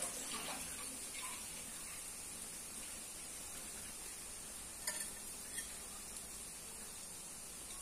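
Rolled börek pastries frying in hot oil in a pan, a steady sizzle. About five seconds in there are two light clinks of a fork being picked up off a ceramic plate.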